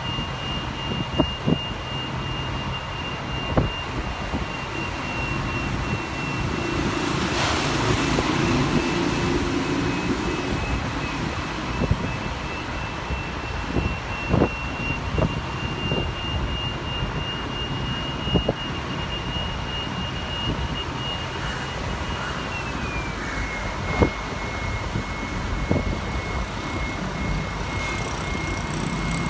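Ride on a moving tour bus: steady engine and road rumble with frequent short knocks and rattles, and a thin high whine that steps down in pitch about two-thirds of the way through. A louder rushing swell builds briefly around a quarter of the way in.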